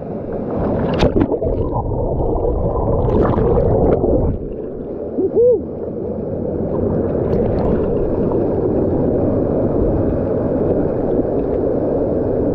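Muffled rushing and bubbling water heard with the microphone submerged, as a swimmer goes under in a waterfall pool. The sound is dull and held low throughout, with a few brief splashes and gurgles in the first half.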